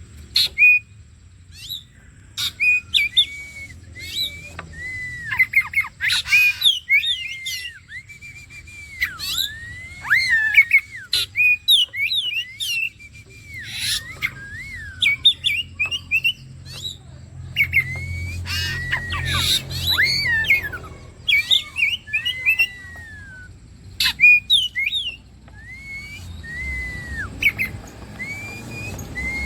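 Oriental magpie-robin (kacer) singing continuously in full song. It gives a varied run of clear whistled notes that slur up and down, mixed with quick sharp chips and a few harsh rasping notes.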